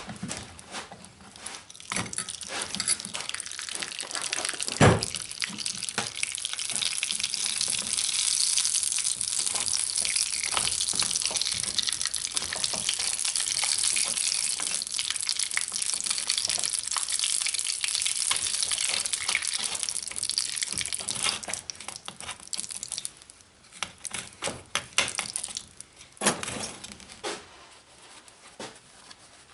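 Hot steel fork sizzling and crackling as wax melts and burns onto it for a hot-wax finish: a steady hiss for about twenty seconds that dies away into scattered crackles. There is a sharp knock about five seconds in.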